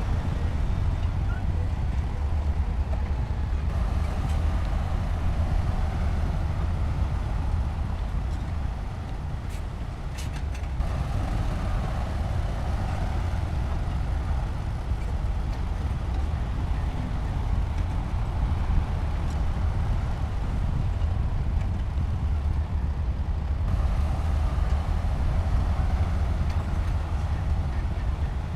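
Heavy diesel earthmoving machinery running steadily with a low rumble, with a few short metallic clanks about ten seconds in.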